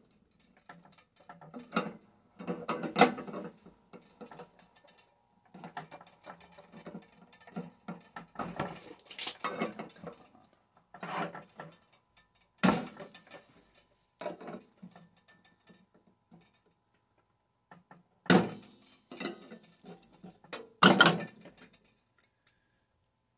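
Metal parts of a microwave magnetron being pried apart and handled: irregular clicks, rattles and scraping, with a few sharper knocks of metal on metal and a brief lull about two-thirds of the way through.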